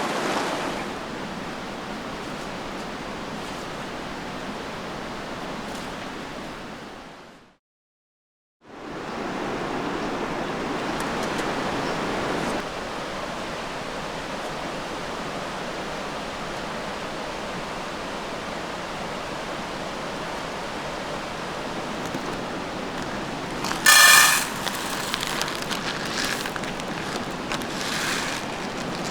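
Steady rushing of running water, like a forest stream, which fades out to silence for about a second and comes back. A short ringing clink sounds near the end.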